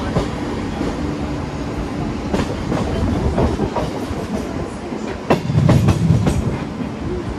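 Mumbai suburban local train (electric multiple unit) running along the tracks: a steady rumble with repeated wheel clicks over the rail joints, getting louder about five seconds in.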